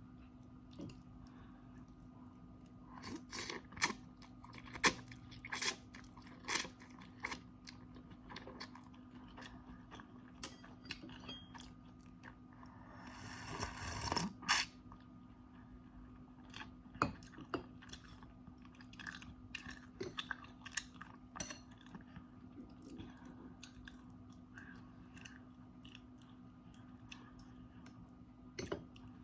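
Close-up eating sounds as someone eats instant noodles: chewing with sharp crunchy clicks and bites, and one longer noisy rush about halfway through.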